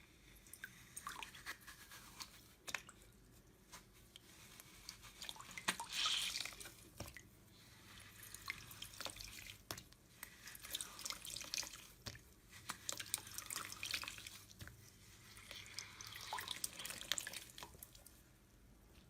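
Slime being squeezed and worked by hand, with irregular wet squelches and small popping clicks. The loudest cluster comes about six seconds in.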